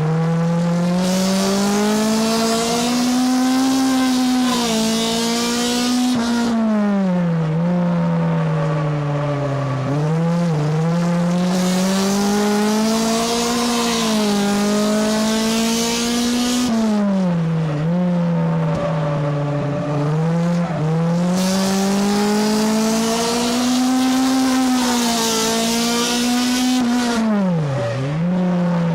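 Race car engine heard from inside the car, working hard around a short oval track. Its pitch climbs, then drops sharply as the throttle is lifted, in a cycle that repeats about every ten seconds, three times. A loud rushing hiss rides over each climb.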